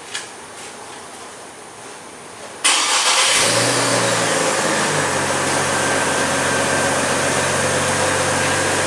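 2008 Chevrolet Trailblazer's engine being started: about two and a half seconds in it cranks and catches, its speed rises briefly on the start, then it settles into a steady idle.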